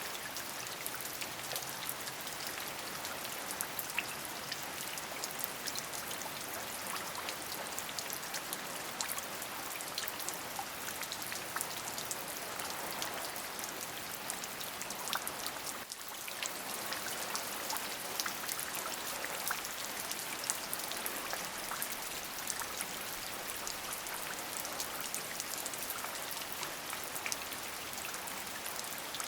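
Steady rain falling, a continuous hiss full of many separate drop impacts, briefly softer about halfway through.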